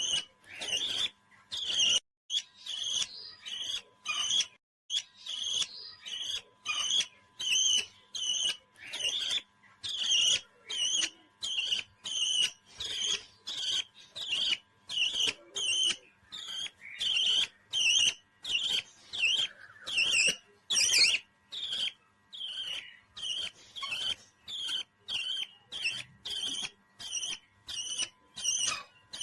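A parrot calling over and over: a short, high chirp repeated evenly, a little under two times a second.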